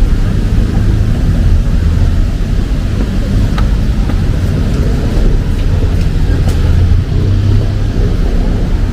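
Road traffic on a busy city street running as a steady low rumble, with an even hiss of rain and a few faint clicks.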